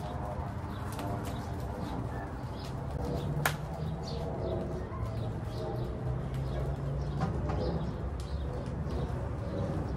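A bird cooing repeatedly in low, held notes, with a sharp knock about three and a half seconds in and a softer knock a little after seven seconds.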